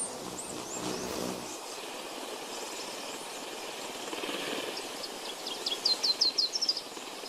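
Forest ambience with a steady background hiss, under a low hum that stops about a second and a half in. A small bird calls with a few high falling chirps early on, then a quick run of about six high chirps near the end.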